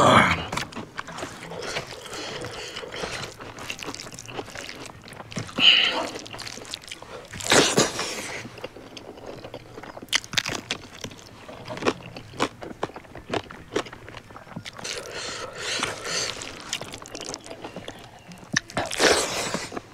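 A person chewing and biting food close to the microphone, with a steady run of small wet clicks and smacks. Two louder hissing sounds stand out, one about a third of the way in and one near the end.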